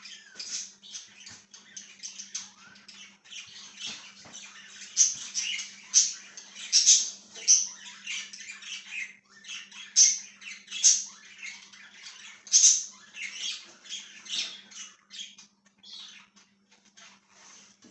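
A flock of pet budgerigars (budgies) chirping and chattering, rapid overlapping warbles broken by frequent loud, sharp squawks.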